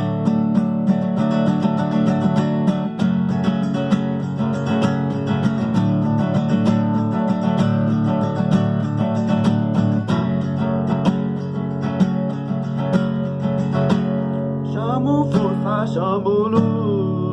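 Strummed acoustic guitar playing an instrumental passage of a song in a steady rhythm. A singing voice comes in near the end.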